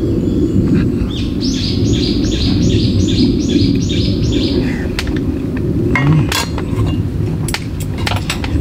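A bird sings a run of about eight quick repeated notes, roughly three a second, over a steady low rumble. A few light clicks and clinks follow in the second half.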